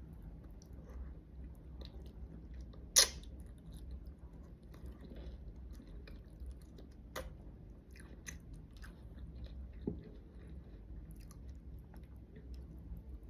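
A person biting and chewing food close to the microphone, with many small crisp clicks and a loud sharp crunch about three seconds in, and a few smaller ones later.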